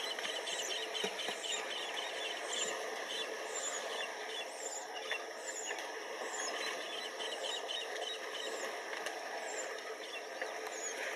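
Wetland ambience: small birds chirping again and again over a steady background hiss.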